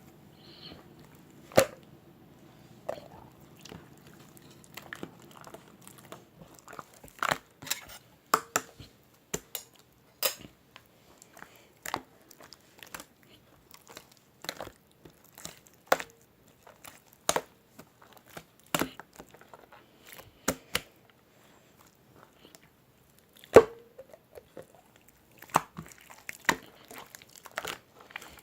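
Irregular sharp clicks and crackles, roughly one a second, the loudest about a second and a half in and again near the end, over a faint low hum that fades out about six seconds in.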